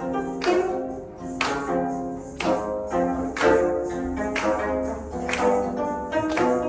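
Live instrumental ensemble music: a steady beat of sharp-attacked notes that ring and fade, over sustained pitched tones.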